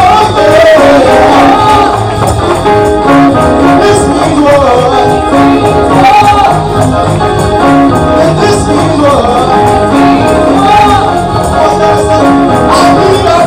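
Live gospel praise music: a singer over a band with a steady beat and tambourine.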